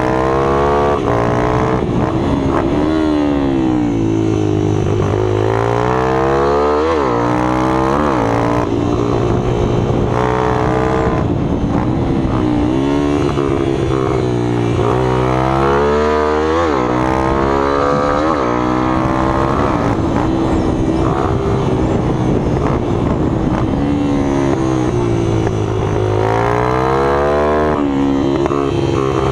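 Minibike engines running hard, their pitch rising and falling over and over as they rev up and drop back.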